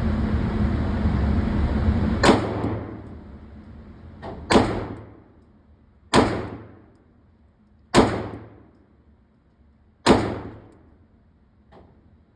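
Five pistol shots fired slowly, about two seconds apart, each echoing briefly in an indoor range, with a fainter shot from another lane in between. A steady rumble fills the first two seconds, before the first shot.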